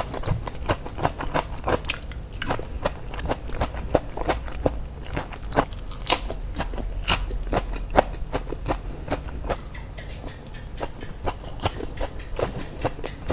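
A person biting and chewing crisp raw lettuce leaves and a tomato slice: a quick, irregular run of crunches and wet mouth clicks.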